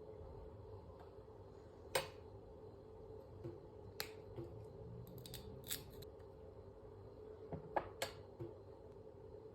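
A few scattered sharp clicks and taps from kitchen utensils being handled during food preparation: single clicks about two and four seconds in, a quick cluster in the middle, and two or three more near the end, over a faint steady room hum.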